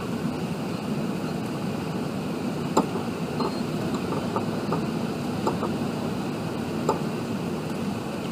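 Steady cabin roar of an Airbus A380 in flight, airflow and engine noise heard from a window seat, with a few faint clicks.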